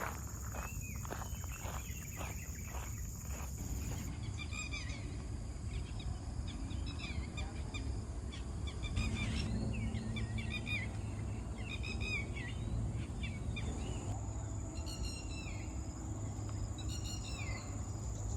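Footsteps for the first few seconds. Then a bird calls over and over, with short chirping phrases about once a second. Under it all run a steady outdoor rumble and a constant high insect drone.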